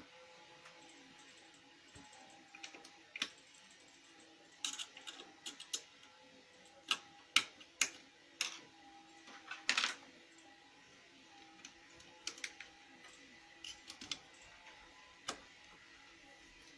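Lexmark X364dn laser printer mechanism running with a faint steady hum, broken by irregular sharp clicks and taps, most of them between about four and ten seconds in.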